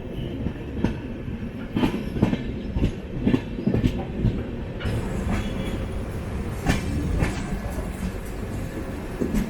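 Express train coach running on the rails, a steady low rumble with irregular wheel knocks and clatter over the track.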